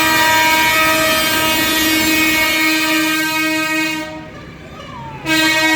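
A loud, long air-horn blast from a vehicle in the tractor parade, held steady for about four seconds, cutting off, then sounding again near the end.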